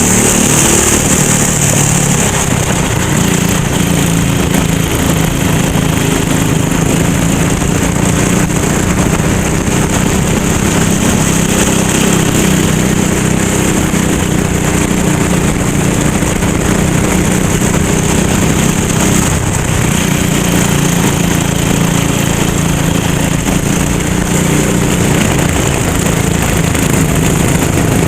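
A racing go-kart's small engine running continuously at speed, its pitch wavering slightly as the throttle is worked.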